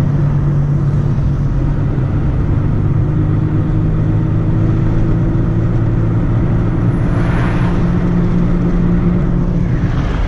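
Car engine and road noise heard from inside the cabin while driving at a steady speed, with a brief swell of hiss about seven seconds in.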